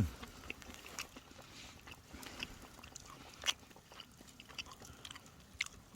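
A person eating: quiet chewing with scattered small clicks.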